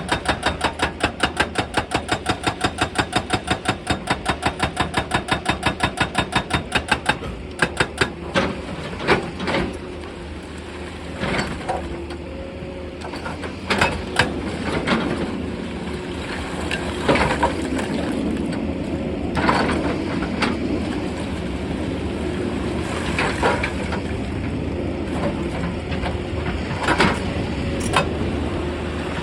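Excavator-mounted hydraulic rock breaker hammering stone in a fast, even rhythm of about four to five blows a second, stopping about seven seconds in. After that the excavator's diesel engine runs steadily, with scattered clanks and knocks of rock against steel.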